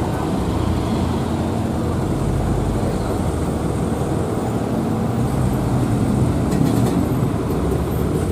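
Heavy truck diesel engine running steadily at low revs, a deep even rumble, with road traffic noise.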